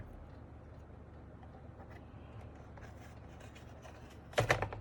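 Plastic keyboard case clips being pried loose: a faint low hum for most of the time, then a quick cluster of sharp plastic clicks near the end as the last stuck clip snaps free.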